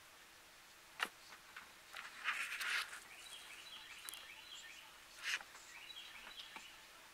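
Small bird calling in short, stepped series of high notes that fall in pitch, twice, with a sharp click about a second in and two brief harsh, noisy bursts.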